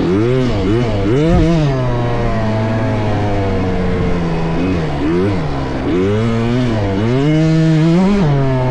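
Small two-stroke motocross bike engines on track. The pitch rises and falls in quick throttle blips, holds steady for a couple of seconds, then climbs in one long rev that drops off shortly before the end, with a steadier engine drone underneath.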